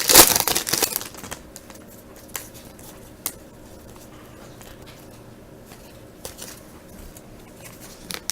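Trading card pack wrapper crinkling and tearing open for about a second, then a few faint ticks as the cards are handled.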